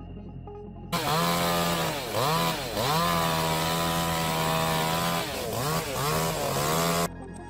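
Chainsaw running at high revs, starting suddenly about a second in, easing off and revving back up a few times, then cutting off abruptly near the end.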